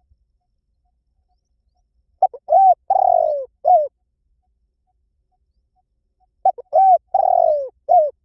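Spotted dove cooing twice, about four seconds apart: each phrase is a few short coos around one longer falling note. This is the 'kích bổi' call, used to stir caged decoy doves into calling.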